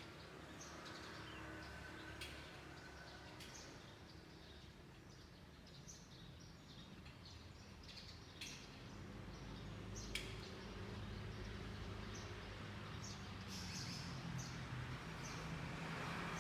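Small birds chirping in short, scattered calls over a faint steady low background hum, which grows louder over the last few seconds.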